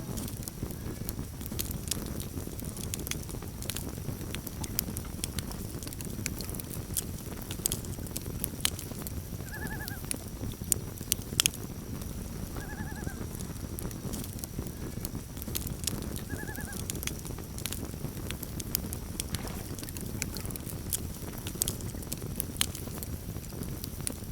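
Campfire burning, with a steady low rumble and frequent sharp crackles and pops. Three short pitched animal calls come in about midway, a few seconds apart.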